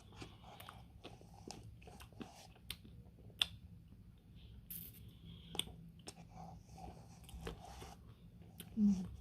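Close-miked eating sounds: chewing and crunching a Dairy Queen Smarties Blizzard, ice cream with candy pieces, with many small wet mouth clicks and crackles. There is a short, louder low sound near the end.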